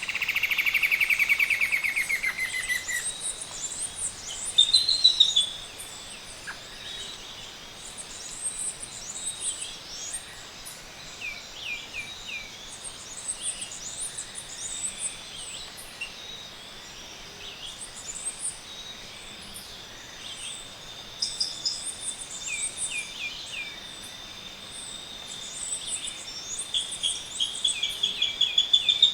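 Morning chorus of tropical birds: many short high chirps and whistles from several birds. A loud rapid trill falls in pitch over the first three seconds, a thin steady high tone runs through the second half, and a rapid series of notes builds near the end.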